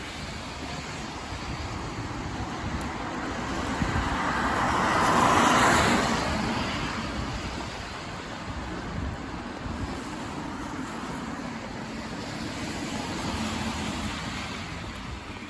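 Road traffic: a steady hiss of tyres and engines. One vehicle passes, swelling to its loudest about five seconds in and then fading away, and a smaller swell from another passing vehicle comes near the end.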